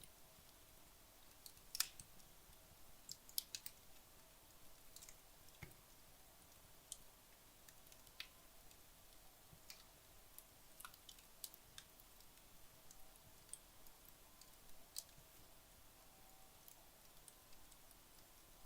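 Wood fire in a fireplace burning low, near the end of its burn: faint, scattered crackles and ticks, irregularly spaced, with a sharper pop about two seconds in.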